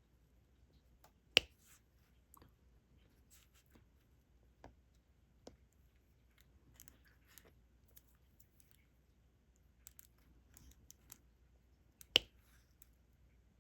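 Small scattered clicks and taps of diamond painting: an applicator pen picking up resin drills and pressing them onto the sticky canvas. Two much sharper clicks stand out, about a second in and near the end.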